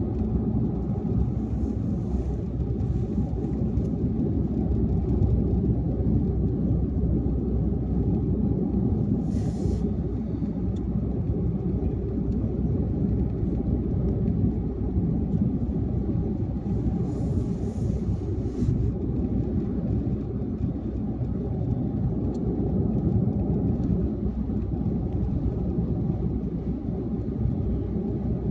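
Car driving at highway speed: steady low road and tyre rumble with engine drone, with two brief higher hisses, about ten seconds in and again around seventeen to nineteen seconds.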